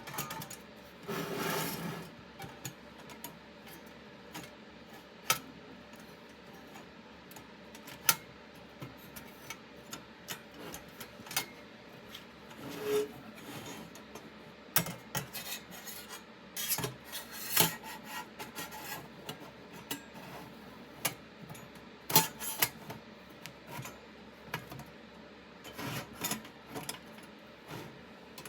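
Scattered sharp clicks and knocks at uneven intervals, with brief stretches of rubbing, as of small objects being handled.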